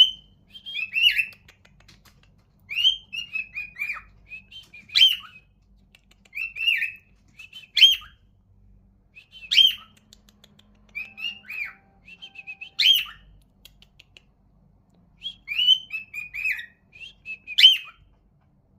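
Cockatiel singing contentedly: short phrases of whistled, warbling notes with sharp chirps, one phrase every second or two with brief pauses between.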